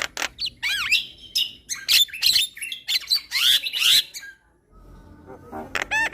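Javan myna (jalak kebo) singing a loud, chattering song of harsh calls and swooping whistles. It breaks off briefly about four seconds in, then starts a fast run of evenly repeated notes near the end.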